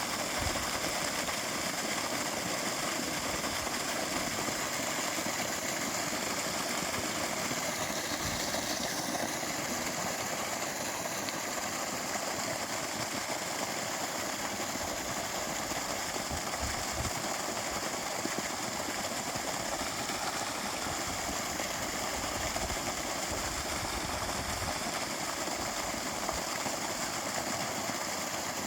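A machine's motor running steadily at an even speed.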